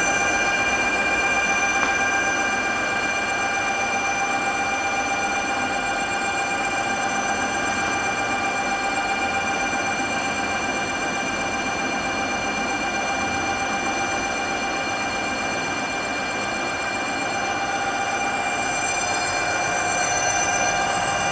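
Brushless gearless electric bike hub motor whining steadily, several high tones held over a rushing noise.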